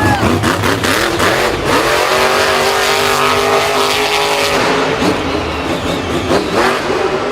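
Loud engine running and revving, with a steady held note for about two seconds in the middle.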